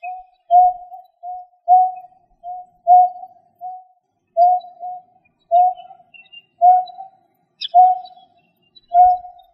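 A bird repeating a short, low hooting note over and over, about once or twice a second, many notes paired loud then softer. A played-back lure call, with faint high chirps in the background.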